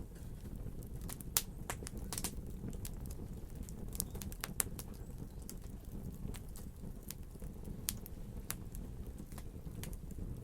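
Wood fire crackling: a steady low rumble of burning, with irregular sharp pops and snaps, a few louder than the rest.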